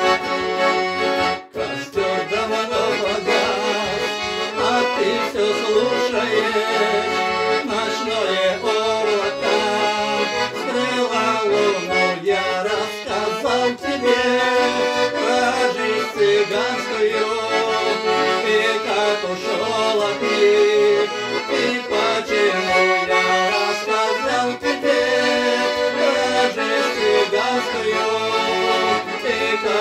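Accordion playing an instrumental passage of a Russian gypsy-style song: a melody over a regular pulsing bass-chord accompaniment, with a brief break about a second and a half in.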